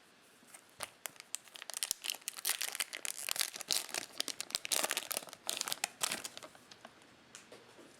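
Cellophane wrapper of a Topps Chrome cello pack crinkling as it is torn open and pulled off, a dense run of crackles for several seconds.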